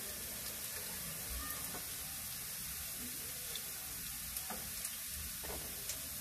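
Diced potatoes frying in hot oil in a frying pan: a steady sizzle with a few faint pops, as the potato cubes are pre-fried before the sauté.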